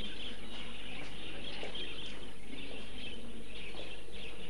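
Small birds chirping and twittering continuously over a steady low background.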